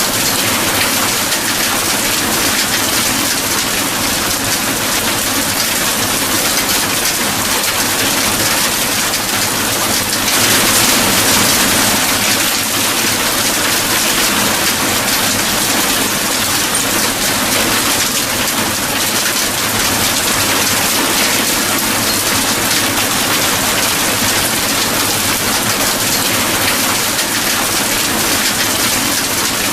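Steady rain falling, an even hiss that swells a little about ten seconds in before settling again.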